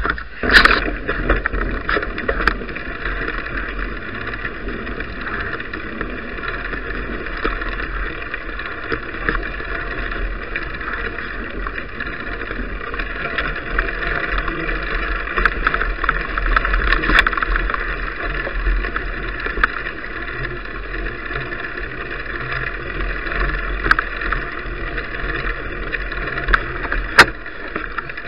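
Riding noise from an action camera on a moving bicycle: steady rumble and hiss from the tyres, with scattered sharp knocks and rattles, the loudest just after the start and about a second before the end.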